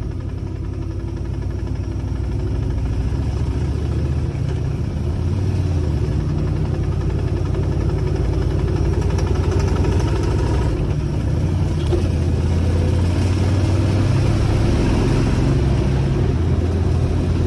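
Motor vehicle engine running steadily while under way, with road noise; it grows louder over the first few seconds, then holds steady.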